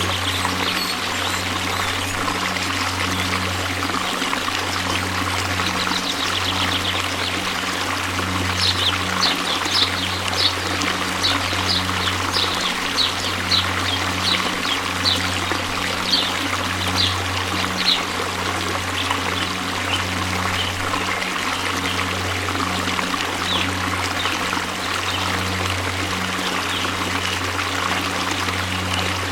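Waterfall: a steady, even rush of falling water. From about a third of the way in until just past the middle, short high-pitched ticks rise above it, about two a second.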